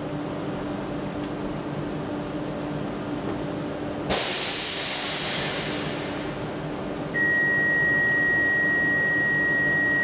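A standing electric train hums steadily. About four seconds in comes a sudden loud hiss that fades over a couple of seconds. From about seven seconds in, a steady high beep holds for about three seconds.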